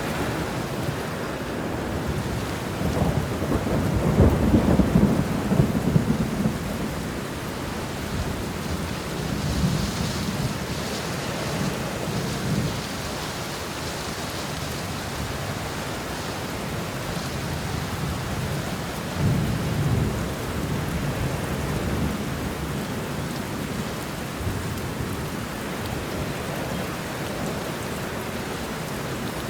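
Steady rain with rolling thunder. A long, low rumble about three to six seconds in is the loudest, and weaker rumbles follow around ten seconds and again around twenty seconds.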